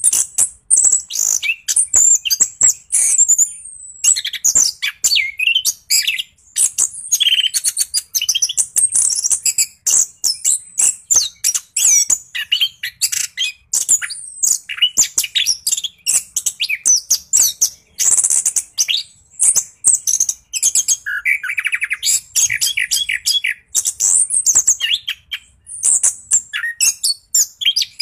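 Chestnut-backed thrush (anis kembang) singing without a break: a rapid, varied run of high whistles, trills and clicking notes. This is the non-stop rolling song that keepers call gacor ngeroll.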